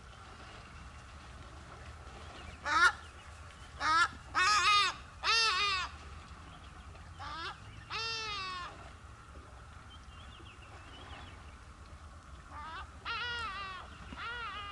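Large birds honking: loud, harsh, arched calls in bouts, several in quick succession a few seconds in, a couple more about halfway, and another burst near the end.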